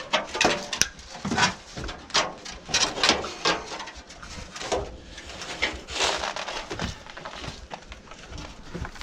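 Irregular clatter, knocks and scraping of mixed debris being shoveled and handled, with sharp knocks coming close together in places.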